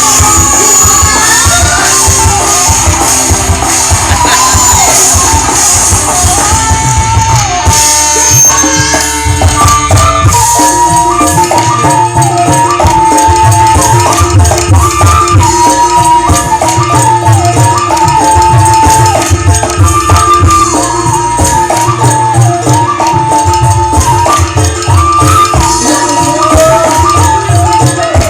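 Loud live dangdut band music, an instrumental passage driven by a hand-drum beat with jingling percussion under a melody line that changes about eight seconds in.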